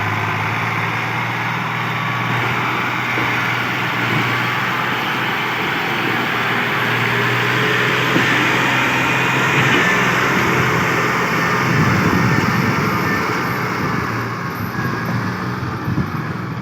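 Tractor's diesel engine running steadily, a low even hum under a rough mechanical noise that grows a little louder in the middle.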